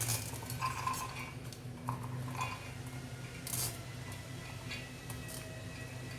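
Steel kitchen utensils clinking: a spoon knocks against steel vessels several times, each with a short ring, over a low steady hum.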